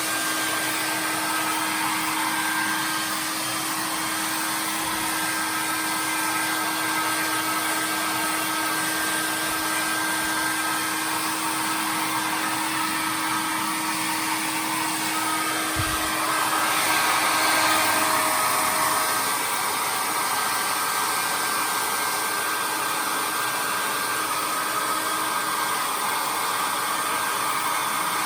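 Hair dryer blowing steadily with a faint motor hum. About halfway through, a soft knock comes, and the blowing shifts in tone and briefly grows a little louder as the hum drops away.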